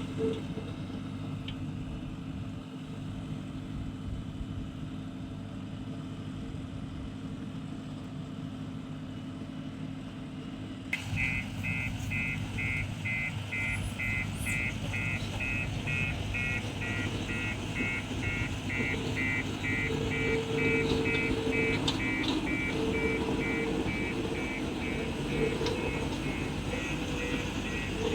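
Heavy diesel machinery engine running steadily. About eleven seconds in, a rapid, evenly repeating electronic beeping starts over the engine noise, like a vehicle's warning alarm.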